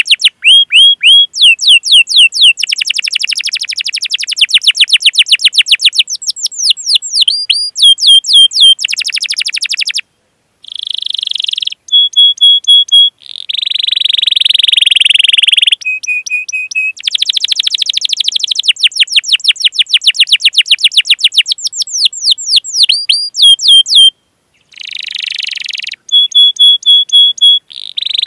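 Domestic canary singing in full, long-running song. It gives rapid strings of sharp falling 'cuit cuit' notes, fast rolling trills and runs of short repeated notes, broken by two brief pauses.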